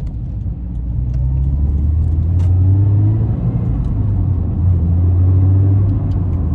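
Subaru BRZ's 2.0-litre flat-four boxer engine, breathing through an HKS aftermarket muffler, droning inside the cabin as the car drives on. The drone grows louder about a second in, rises in pitch under acceleration, and eases briefly about four seconds in before picking up again.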